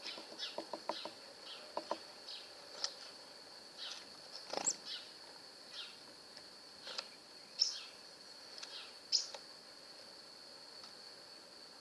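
Birds giving short chirping calls, roughly one a second, over a steady high-pitched whine; a quick run of light ticks in the first two seconds.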